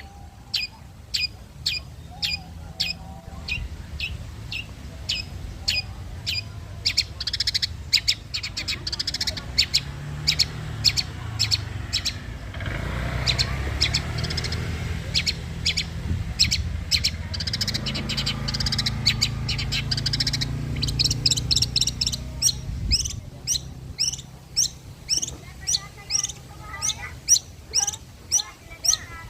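Long-tailed shrike (cendet) calling in a steady string of short, sharp chirps, about two a second, coming quicker toward the end. A low motor hum swells and fades in the middle.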